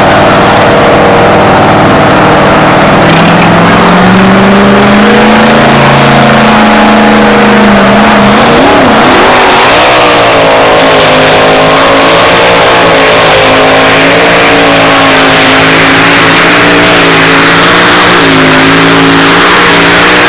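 Modified two-wheel-drive pulling truck's engine running at full throttle during a pull, very loud. The engine pitch climbs, dips and wavers about eight seconds in, then holds high and steady.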